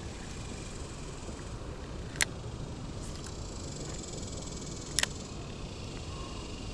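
Steady outdoor rush of river water and wind while wading, broken by two sharp clicks, one about two seconds in and a quick double click about five seconds in.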